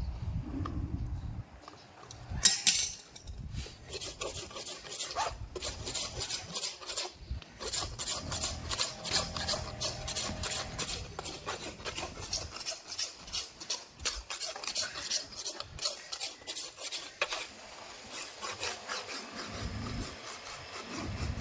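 A farrier's rasp filing a horse's hoof, in many quick scraping strokes one after another, with a short break about 17 seconds in. A single sharp knock sounds about two and a half seconds in, just before the rasping starts.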